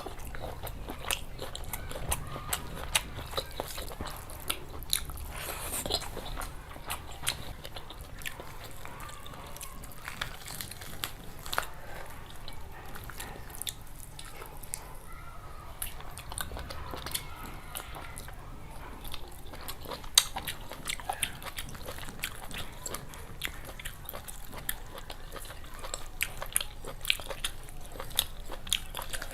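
A person chewing and biting curry and rice close to the microphone, with a dense, irregular run of small wet clicks and crunches.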